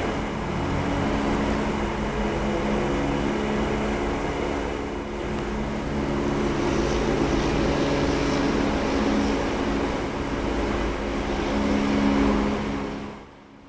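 Loud, steady low drone with several held tones over a rumbling hiss, cutting off abruptly near the end: a recording of one of the so-called strange sky noises, which the uploader attributes to underground tunnel building.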